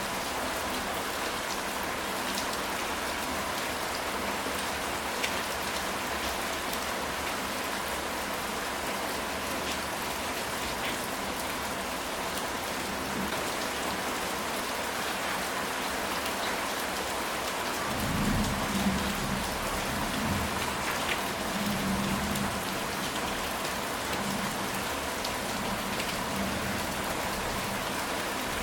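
Steady rain falling on a ceramic tile roof, with scattered drops ticking through it. About two-thirds of the way in, a low rumble of thunder rolls for several seconds.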